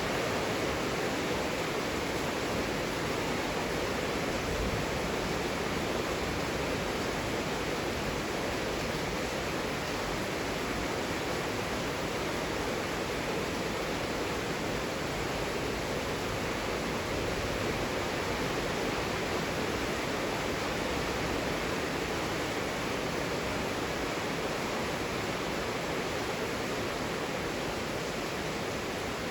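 Heavy rain falling steadily: an even, unbroken hiss with no single drops or gusts standing out.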